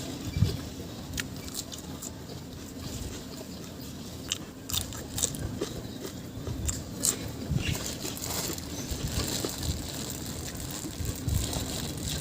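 A person chewing and biting food close to the microphone, with scattered crunches and small clicks throughout.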